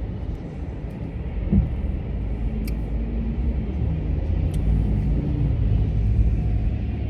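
Steady low rumble of road and engine noise inside a moving car's cabin, with a brief thump about a second and a half in.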